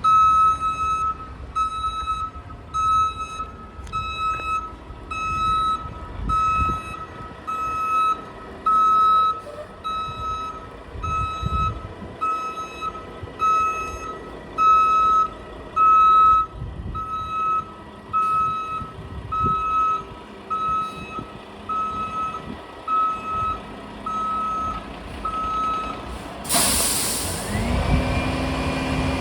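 Refuse truck's reversing alarm beeping steadily, a little more than once a second, over the low rumble of its diesel engine. Near the end the beeping stops and the air brakes release with a loud hiss.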